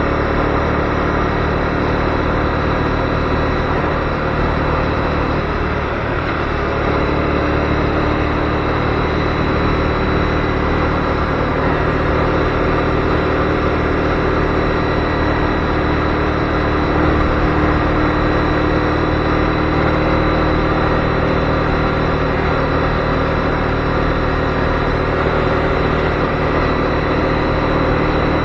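Honda CB250R's single-cylinder engine running at a steady road speed, with wind and road noise. The level dips briefly about six seconds in, and the engine then settles at a new steady pitch.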